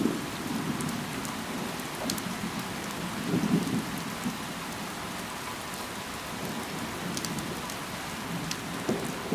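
Steady rain falling, with individual drops ticking sharply now and then. Short low rumbles come through about three and a half seconds in and again near the end.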